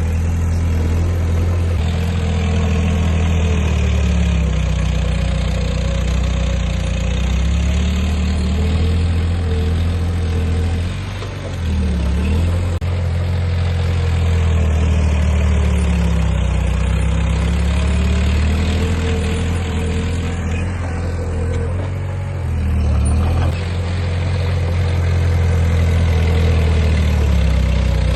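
Heavy diesel engine of an earthmoving machine running continuously, its pitch slowly rising and falling as the load changes, with brief dips about 11 and 23 seconds in.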